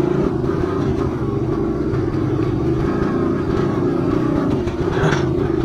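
Small pit bike engine running at steady revs while being ridden, with a brief louder burst near the end.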